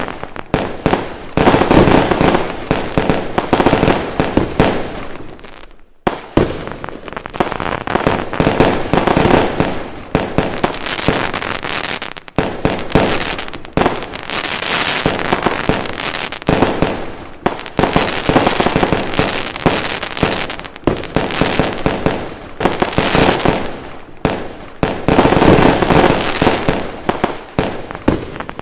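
Fireworks going off in a dense, continuous barrage of bangs and crackles, with brief lulls about six and twelve seconds in.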